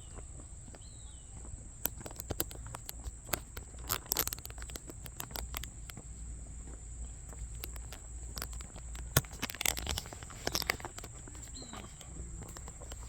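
Footsteps crunching along a garden path, with irregular clicks and scuffs that cluster around four seconds in and again from about nine seconds on. A steady high-pitched hum runs underneath, and a few faint bird chirps come in near the start and near the end.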